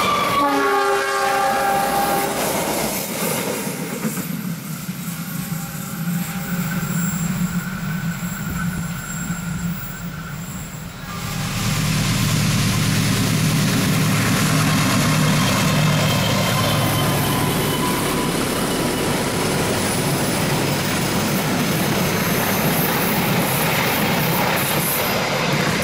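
Train horn sounding briefly at the start. About eleven seconds in, a train's locomotive and wagons arrive, running past with a loud, steady rumble and low engine drone.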